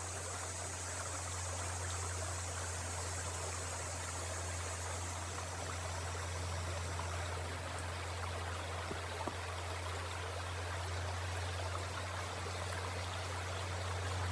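Peters Creek's water running steadily over its rocky bed, a continuous rushing stream with a steady low hum underneath.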